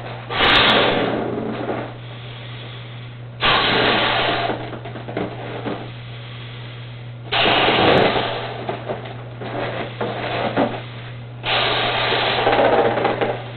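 A 16-inch latex balloon being inflated in four rushes of air, each about two seconds long and fading off, over a steady low hum.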